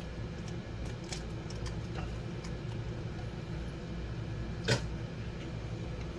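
A steady low hum with a few faint light taps, and one sharper knock about four and a half seconds in: kitchen handling sounds while an egg goes into the bowl.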